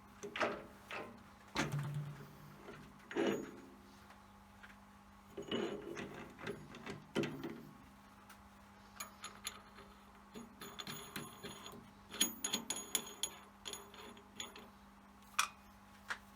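Scattered metallic clicks and knocks of tools or parts being handled, with a quick run of light rattling ticks about two-thirds of the way through, over a steady faint hum.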